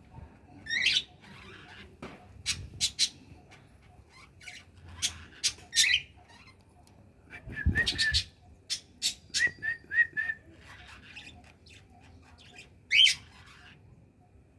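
Caged birds calling: a few sharp, rising squawks (about a second in, around six seconds and around thirteen seconds) among scattered short chirps and clicks, with a quick run of chirps about ten seconds in. A louder thump sounds near the middle.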